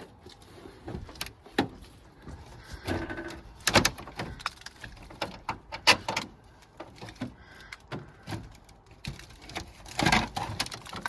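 A soffit being pried and pulled loose from the eaves. Irregular knocks and clicks mix with scraping as the panel and its nails work free, with louder scrapes about four and six seconds in and again near the end.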